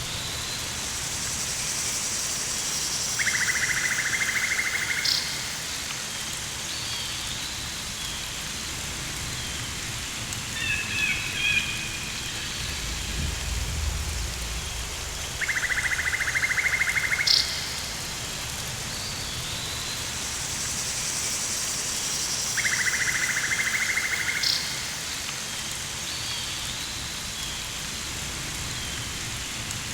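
Rainforest ambience: a steady hiss, with a buzzing trill of about two seconds that comes three times, short chirping calls near the middle, and a low rumble about halfway through.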